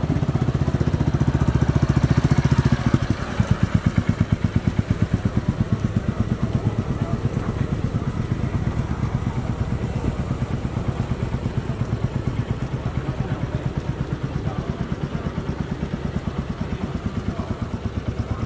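Royal Enfield single-cylinder motorcycle engine running at low speed with a steady, even thump, louder for the first three seconds as the bike rides up, then a gentle, regular beat as it rolls slowly into the parking area.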